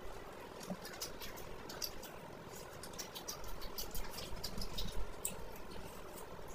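Chewing and mouth sounds of a person eating fried fish by hand: many small, irregular wet clicks and smacks.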